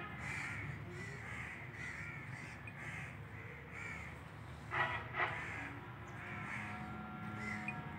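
Birds calling over and over, with two louder calls in quick succession about five seconds in.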